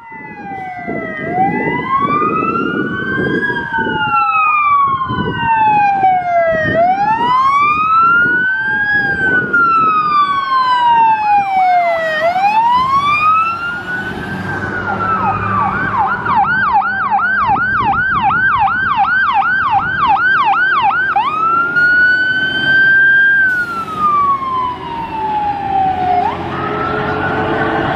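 Sirens on a fire engine and a water tanker, wailing up and down over the trucks' engine noise. Two wails overlap out of step, each rise and fall taking a few seconds. About halfway through a siren switches to a fast yelp of roughly three cycles a second for several seconds, then goes back to a slow wail.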